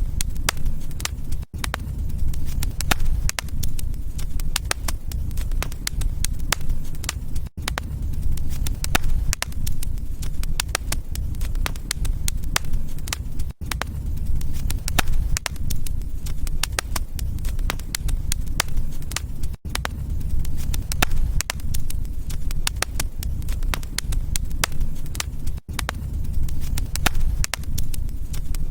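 Wood fire crackling, with many small irregular pops over a steady low rumble. A brief dropout comes about every six seconds.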